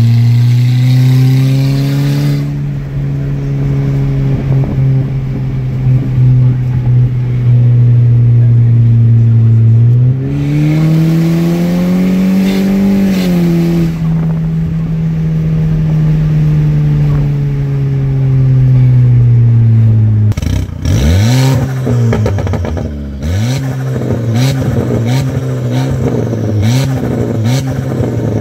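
Straight-piped exhaust of an Audi A4 2.0T turbo four-cylinder, idling loud while warming up after a cold start, the idle slowly settling lower. About ten seconds in the engine is revved once gently and eased back, and from about twenty seconds it is blipped in a string of short quick revs.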